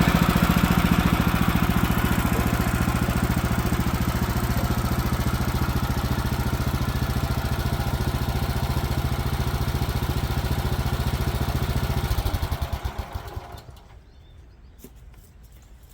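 Woodland Mills HM 130Max sawmill's gasoline engine running steadily, then shut off about twelve seconds in, its firing slowing and dying away within two seconds.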